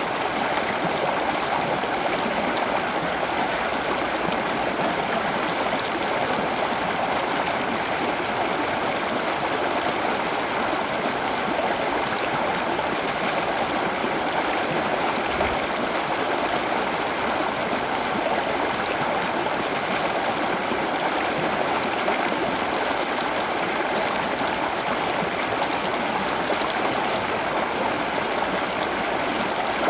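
Running water, a steady, unbroken rush like a stream or trickling water feature.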